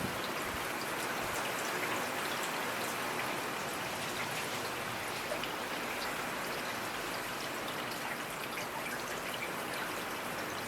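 Steady rainfall with scattered individual drops ticking.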